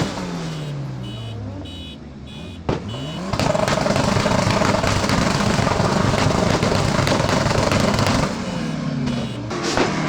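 Car engine revved and let fall back: its pitch sweeps down, then it is held at high revs for about five seconds and sweeps down again, rising once more near the end. A single sharp crack comes about two and a half seconds in.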